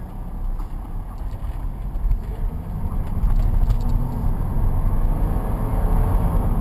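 Chevrolet Omega's 3.8-litre V6 heard from inside the cabin, pulling away from a stop on light throttle; the engine grows louder about three seconds in as the car gathers speed.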